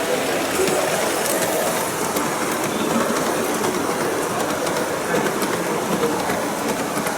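G-scale LGB model train running along the track, a steady rolling and running noise with scattered faint clicks.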